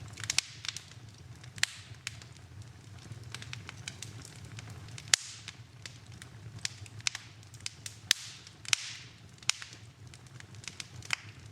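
Wood fire in a fireplace crackling, with irregular sharp pops, the loudest about five seconds in, over a low steady rumble.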